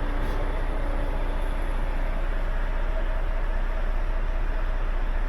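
Volvo FH 500 truck's 13-litre six-cylinder diesel engine idling steadily.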